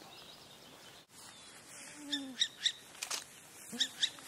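Birdsong in a spring forest: groups of short, sharp high calls about two seconds in and again near the end, with two short low owl hoots beneath them.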